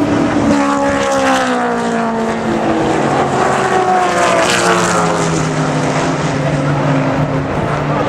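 Historic muscle race cars going past at speed one after another, each engine note dropping in pitch as it goes by.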